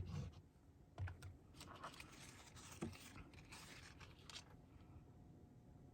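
Faint handling of paper and card: a few soft taps, scrapes and rustles as paper pieces are laid down and pressed onto a card.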